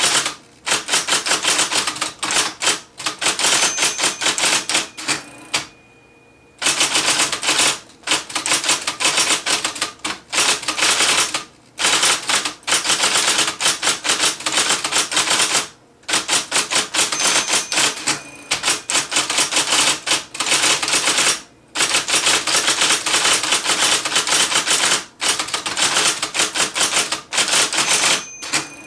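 IBM Selectric III electric typewriter being typed on fast: a rapid, loud clatter of keystrokes and typeball strikes in runs, broken by short pauses, the longest about six seconds in.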